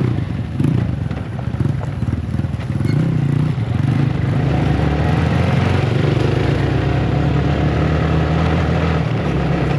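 Motorcycle engine running while being ridden, its note shifting a little in the first few seconds and then holding steady, with road and wind noise building about halfway through.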